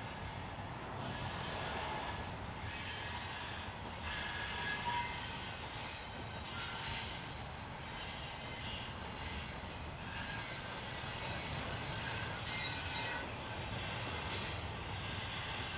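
Norfolk Southern train rolling past with a steady low rumble, its steel wheels squealing on and off in high thin tones, loudest in a brief screech about twelve seconds in.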